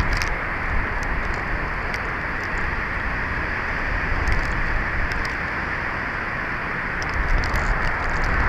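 Strong wind blowing across a nest-camera microphone: a steady rushing hiss with faint scattered ticks. The low rumble of gusts buffeting the microphone eases at the start and builds again near the end.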